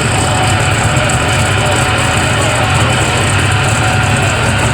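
Tractor engine running steadily and loudly, with a strong low hum.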